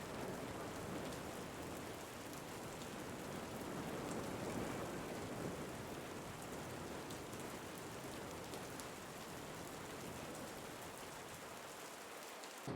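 Steady rain falling, with individual drops ticking close by. In the last second the deep part of the sound fades away.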